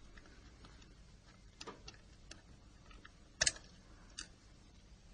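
Small, faint clicks and taps of a metal hand tool working on a mobile phone's plastic and metal parts, as the LCD connector is unlocked. One click, about three and a half seconds in, is louder than the rest.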